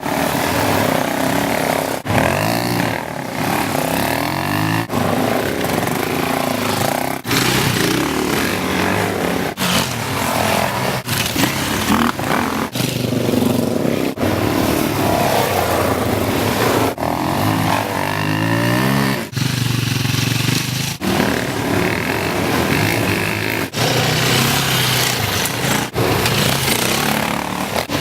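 Dirt bike engine running and revving, its pitch rising and falling, over a steady rush of wind noise. The sound breaks off abruptly and starts again every two or three seconds.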